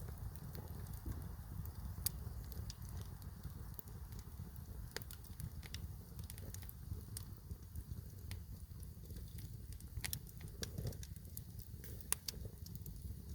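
Wood campfire crackling, with sharp pops scattered irregularly through it over a steady low rumble.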